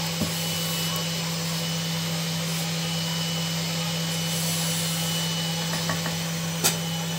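Diced lamb, onions and peppers sizzling in oil in a saç pan as they are stirred with a silicone spatula, over a steady hum. A single sharp tap near the end.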